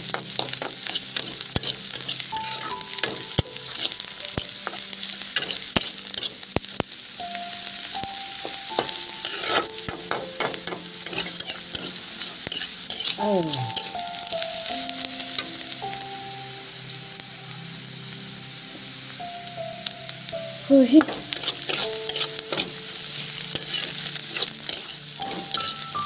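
Oil sizzling in a wok as chopped onions and chillies are stir-fried, with a spatula scraping and clicking against the pan again and again.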